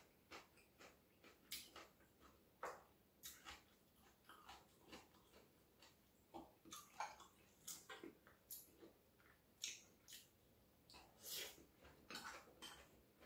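A person chewing a mouthful of rice and steamed cabbage with soft, wet mouth sounds: irregular smacks and small clicks every second or so.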